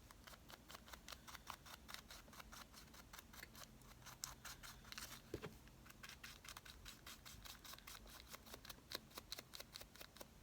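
Faint, rapid scratchy dabbing of an ink pad worked along the edges of paper, several light strokes a second.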